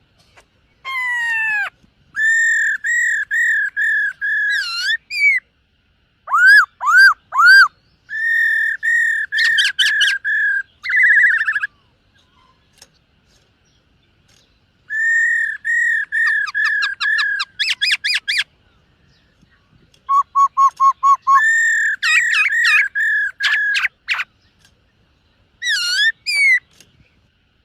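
Black-throated laughingthrush singing: loud, clear whistled phrases of quickly repeated notes on one pitch, mixed with rising and falling slurs, in about five bursts with short pauses between them.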